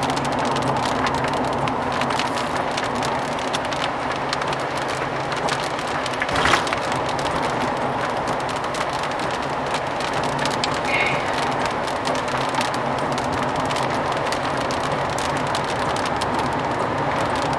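Steady road and engine noise inside a moving car, with rain hitting the car's body and glass. A single brief knock stands out about six and a half seconds in.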